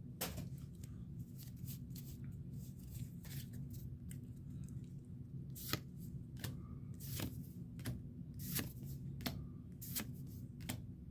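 Pokémon trading cards being flipped and slid through the hands one after another: a run of soft, irregular card snaps and rustles over a low steady hum.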